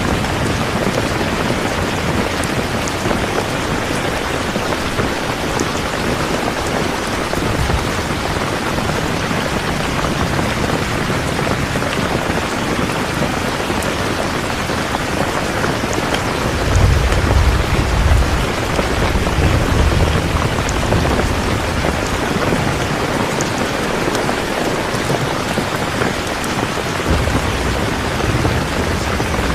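Steady rain falling, an even hiss of drops on surfaces. About halfway through, a low rumble of thunder swells for a few seconds, and a weaker rumble comes near the end.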